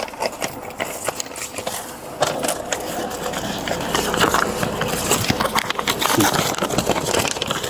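Rustling, scraping and a run of small clicks and knocks from handling and movement close to a body-worn camera's microphone, busier and louder from about two seconds in.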